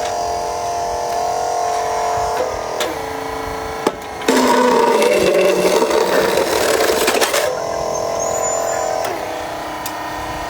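Electric motors and gearing of a radio-controlled construction model whining steadily in bursts. Each burst winds down in pitch as a motor stops. A louder, rougher run of the motors lasts about three seconds in the middle.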